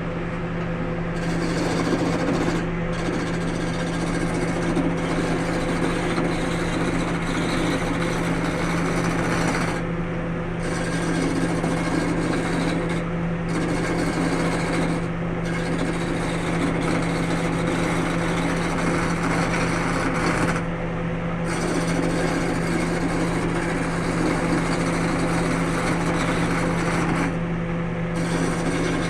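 Wood lathe running with a steady motor hum while a tool scrapes against the spinning wood. The tool is lifted off briefly about six times, leaving only the hum.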